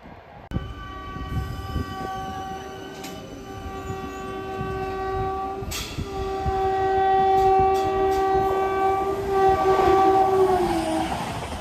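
Express train's electric locomotive sounding a long horn, with a short break about six seconds in, over rising rail clatter as it approaches at speed. Near the end the horn's pitch drops as the locomotive passes.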